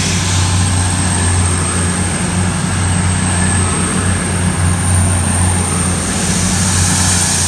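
Class 222 Meridian diesel multiple unit's underfloor diesel engines running with a steady low drone as the train pulls out of the platform.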